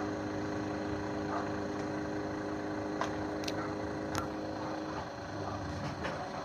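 A vehicle engine running steadily with a low hum that eases off about five seconds in, with a few faint clicks over it.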